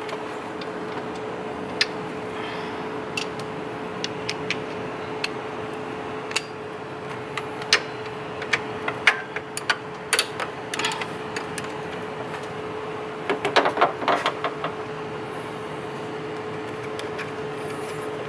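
Hand tools clinking and knocking on metal while the belt tensioner is being unbolted from the engine, with a quick run of clicks about two-thirds of the way in, over a steady background hum.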